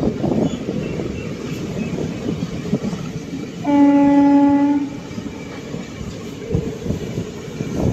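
Passenger express train running along the track, heard from the open coach door, with a steady rumble and wheel clatter. About four seconds in, a train horn sounds one steady blast of about a second.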